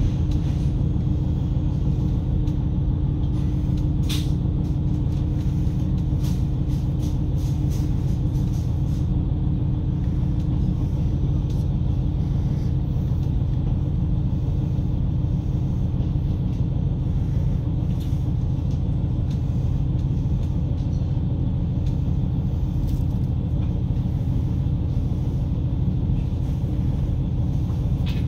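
Inside the cabin of a diesel railcar running steadily along the line: a constant low rumble of engine and wheels on rail with a steady hum. A few short sharp clicks or creaks come through, the clearest about four seconds in.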